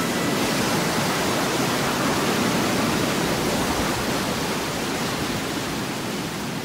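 A steady, even rush of rough sea, a sound-effect track of storm surf, starting abruptly as the music stops.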